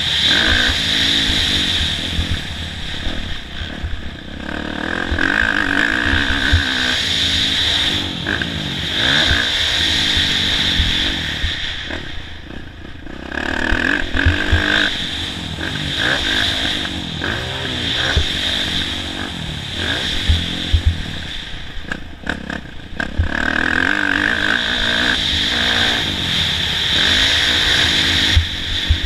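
Kawasaki KX450F four-stroke single-cylinder dirt bike engine revving up and down with the throttle while riding a motocross track, with clattering knocks from the bike. The engine drops away briefly twice.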